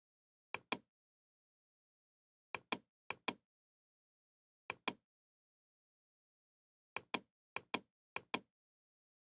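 Sharp double clicks, seven pairs at uneven intervals, the second click of each pair slightly louder, with dead silence between them.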